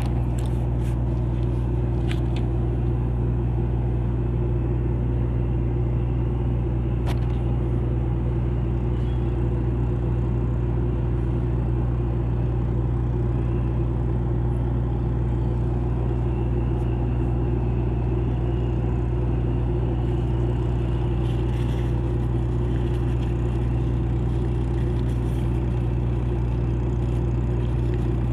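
A ship's engine running with a steady low drone that holds unchanged throughout, with a few faint clicks near the start.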